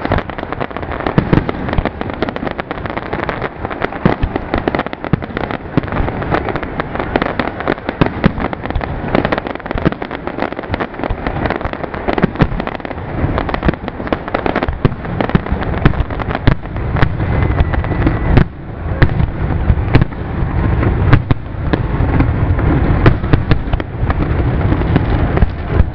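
Zambelli professional aerial fireworks display: a rapid, continuous barrage of shell bursts and crackling. The deep bangs get heavier about two-thirds of the way in.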